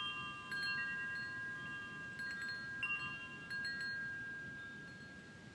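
Chimes struck several times, their clear tones ringing on and slowly fading. A faint low background rumble lies under them.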